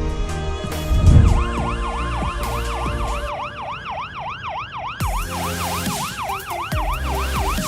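An emergency vehicle siren in fast yelp, its pitch sweeping up and down about three times a second, starting about a second and a half in, over background music.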